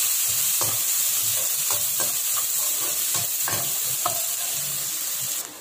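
Chopped onion, ginger, garlic and green chillies sizzling in hot oil in a kadai, stirred with a perforated metal ladle that scrapes the pan in repeated strokes. The sizzle drops off suddenly near the end.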